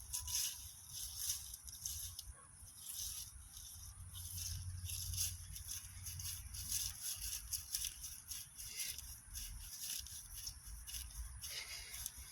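Irregular rustling and crackling, with a low rumble that rises and falls like wind on the microphone.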